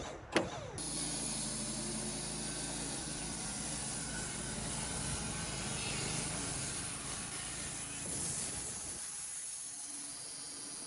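Sawmill running and cutting through a black walnut cant: a steady hiss of the blade with the mill's low hum under it, after two sharp knocks at the start. About nine seconds in, the low hum drops away and the hiss carries on, fading.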